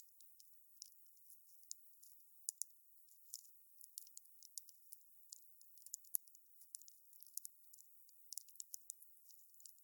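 Wood fire crackling, with soft, irregular pops and snaps, several a second, over a faint hiss.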